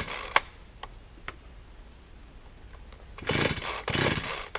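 Chainsaw being pull-started after refuelling: a few light clicks, then two pulls of the starter cord near the end.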